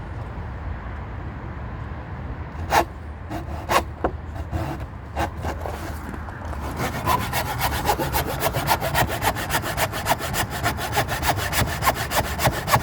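A saw cutting through the timber of a wooden gate. There are a few scattered strokes at first, then from about halfway in a fast, steady run of strokes.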